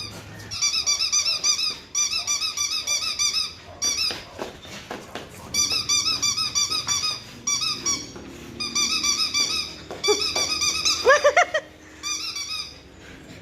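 Squeaky dog toy being chewed by a French bulldog: rapid squeaks, about six a second, in bursts of one to two seconds with short breaks, and a louder, lower squeal about eleven seconds in.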